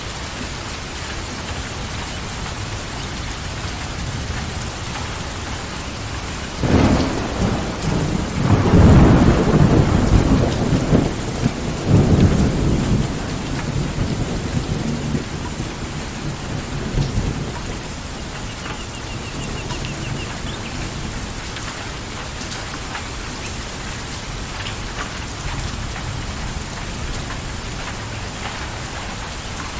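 Steady rain falling, with a peal of thunder that breaks in about seven seconds in, rumbles loudest a few seconds later and dies away over about ten seconds.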